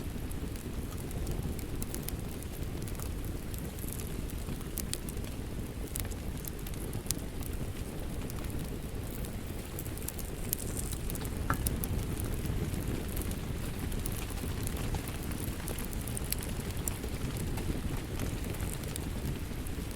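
Crackling fire with steady rain: a continuous low rumble under scattered sharp pops and crackles.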